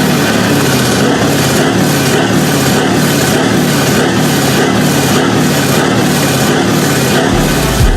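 Heavy truck engine running loud and steady, with a regular pulse about twice a second.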